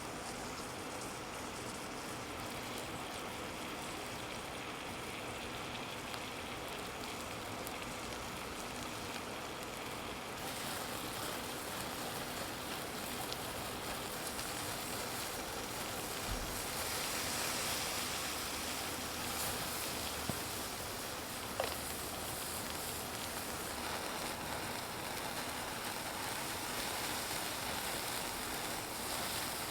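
A steady hiss that grows a little brighter about a third of the way in, with two sharp clicks a bit past two-thirds through.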